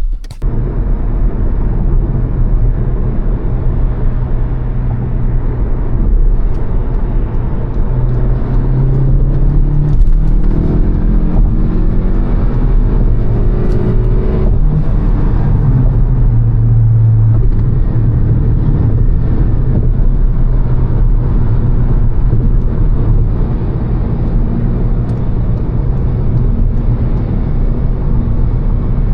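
Volkswagen Golf GTI Mk7's turbocharged 2.0-litre four-cylinder, Stage 1 tuned with an open intake, running on the move under a steady road rumble. The engine note climbs in pitch under acceleration in the middle, then settles into steady cruising.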